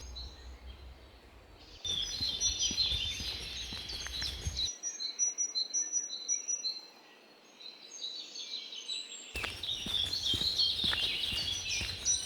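Woodland birdsong: several songbirds chirping and trilling over a low background rumble. The background changes abruptly a few times, about two, five and nine seconds in.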